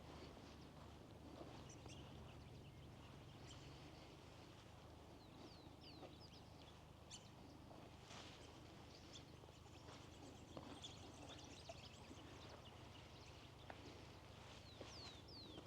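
Faint bird calls: scattered short high chirps and quick falling whistles, several in a cluster about five seconds in and again near the end, over a low steady rumble.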